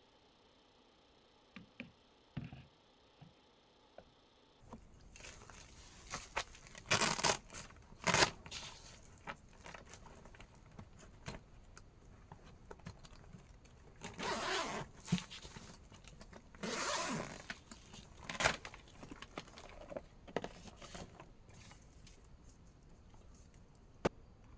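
Close handling noise: a few light clicks, then several short rasping pulls with rustling between them, and a last sharp click near the end.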